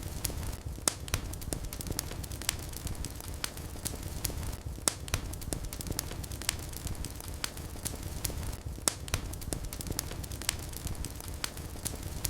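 Wood fire burning in a fireplace, with a steady low rumble of flame and irregular sharp crackles and pops several times a second.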